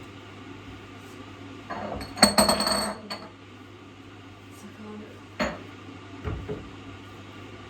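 Dishes and utensils clattering and clinking with a ringing tone for about a second, followed by two separate knocks, over a steady low hum.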